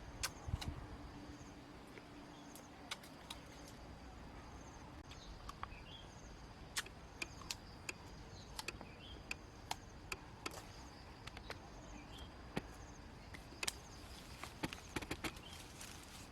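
Irregular sharp clicks and snaps, a dozen or more spread unevenly, over a faint steady high-pitched buzz and a few soft chirps.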